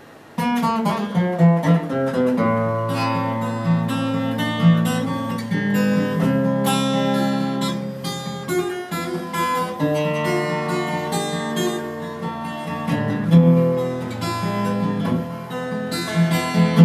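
Instrumental introduction of a pop ballad: acoustic guitar picking and strumming over held low bass notes, starting about half a second in.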